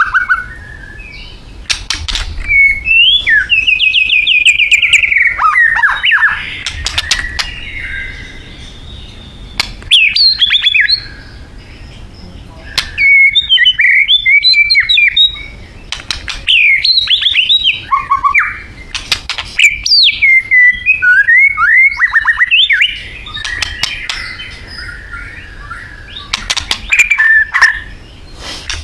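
White-rumped shama singing: bursts of fast, varied whistled phrases with quick pitch swoops and trills, broken by short pauses, with sharp clicks among the phrases.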